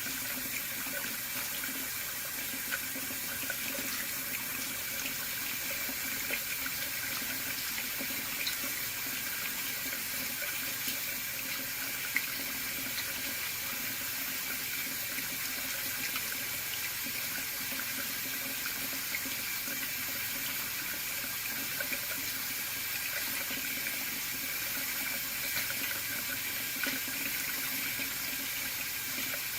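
Hot water running steadily from a partly opened faucet, a constant even rush of flow.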